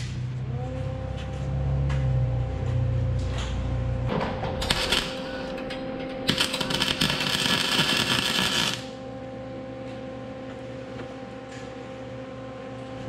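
MIG welder arc crackling as welds are laid on a steel truck flatbed: a short burst about four seconds in, then a steadier crackle for about two and a half seconds that cuts off suddenly. A low hum underlies the first four seconds.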